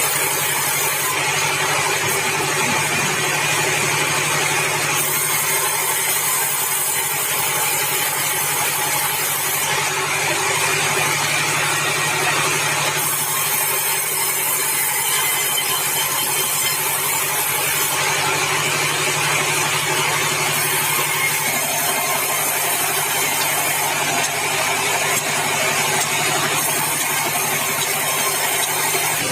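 Bandsaw mill running while sawing meranti timber: a steady low hum under a loud, continuous hiss, the high part of the hiss shifting in level every few seconds.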